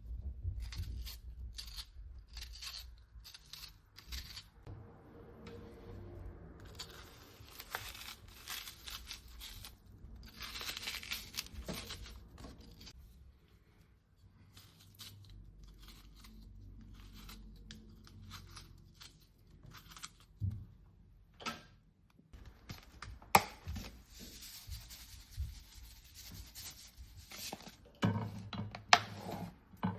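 Kitchen preparation sounds: irregular rustling and scraping with scattered clicks, and a few sharp knocks near the end.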